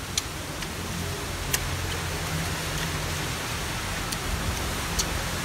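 A person chewing a bite of crispy fried chicken wing close to the microphone: a few sharp, isolated crunching clicks over a steady hiss.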